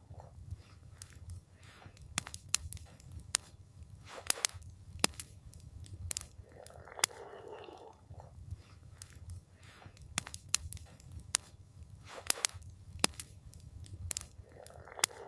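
Wood campfire crackling, with many sharp irregular snaps and pops over a low steady rumble. A soft hushing sound rises and fades about seven seconds in.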